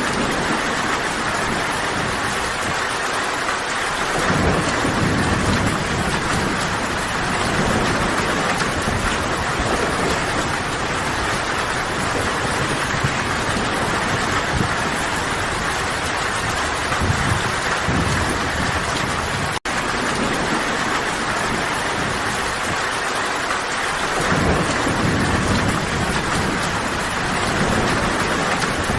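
Steady heavy rain, with a low rumble swelling in about four seconds in and again near the end. The sound drops out for an instant about two-thirds of the way through.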